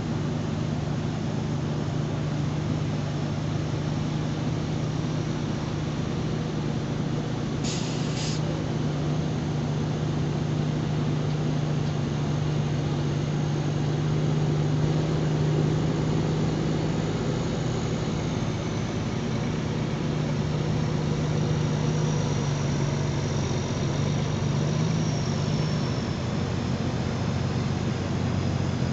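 Scania R440's 13-litre inline-six diesel running under way through a straight-through exhaust, a steady even drone. Two brief sharp sounds come about eight seconds in.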